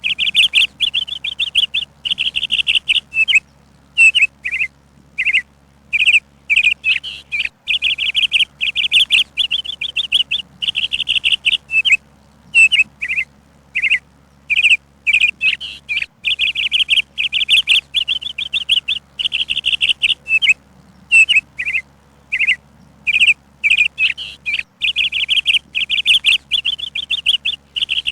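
A songbird chirping in rapid trills, bursts of a second or two with short gaps between, the same run of phrases recurring about every eight seconds.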